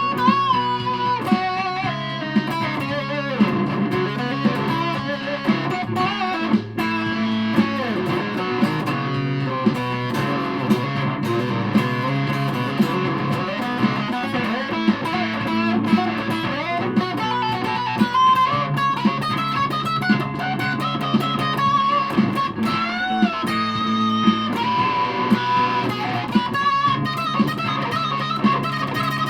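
Aria Pro II Thor Sound electric guitar played through a Joyous Dream super fuzz pedal with the guitar's tone control turned all the way down. It plays fuzzy, sustained notes with string bends and vibrato.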